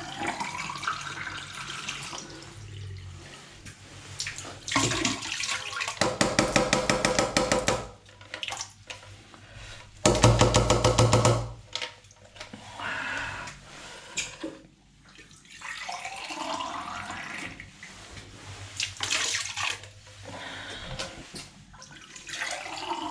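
Water running from a tap into a sink and draining away. Twice it gurgles loudly in quick pulses down the waste.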